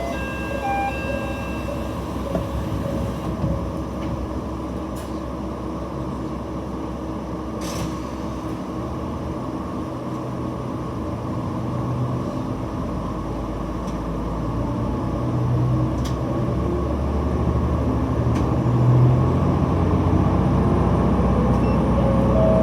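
Diesel railcar heard from the cab, its engine running under power and growing louder over the second half as the train gathers speed, with a few sharp clicks.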